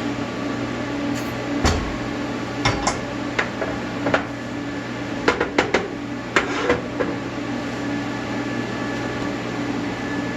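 Steady low electrical hum with about ten light clicks and knocks of metal parts being handled in the middle of the stretch.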